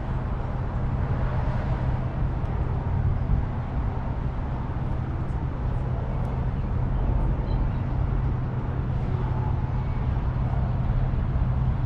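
Semi truck's diesel engine idling, a steady low drone that holds even throughout.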